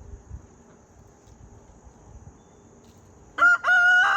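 Rooster crowing, starting about three and a half seconds in: a short first note and then a long, level, held note.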